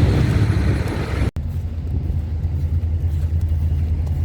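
Steady low rumble of an idling truck engine, broken by a brief dropout about a second in.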